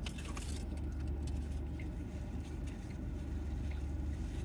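Steady low rumble of a motor vehicle, with a few faint clicks near the start.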